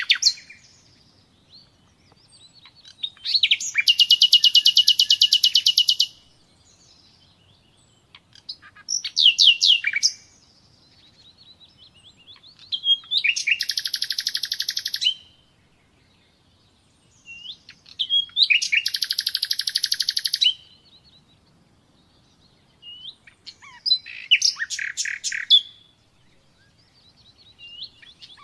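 Common nightingale singing: five phrases, each a fast run of rapidly repeated high notes lasting one and a half to three seconds, with pauses of about two seconds between phrases.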